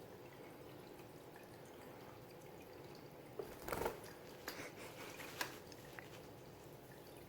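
Faint water splashing and dripping as a parakeet bathes: a short burst of splashes about halfway through, then a few small drips and flicks, over a steady faint hiss of water.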